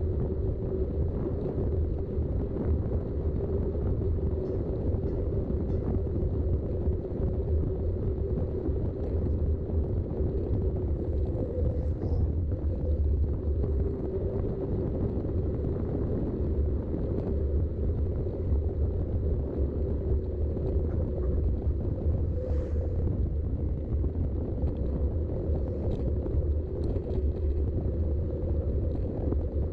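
Wind buffeting the GoPro's microphone over the rumble and hum of mountain bike tyres rolling at riding speed, with a few faint clicks.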